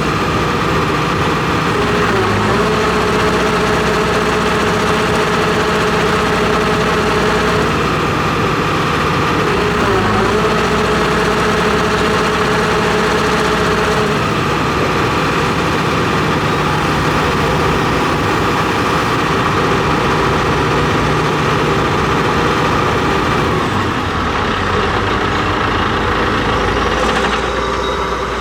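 John Deere 245G excavator's Isuzu diesel engine running steadily, with a steady whine that wavers and breaks off a few times.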